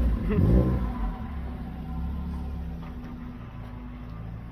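A car engine idling with a steady low rumble. A voice is heard briefly in the first second.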